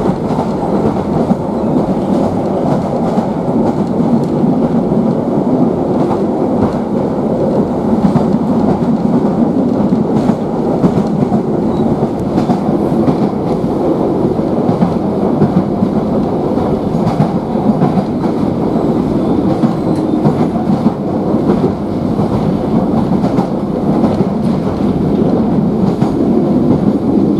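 Running noise inside a moving Island Line Class 483 electric train, ex-London Underground 1938 tube stock: a steady rumble of wheels on rail with frequent clicks and rattles of the carriage.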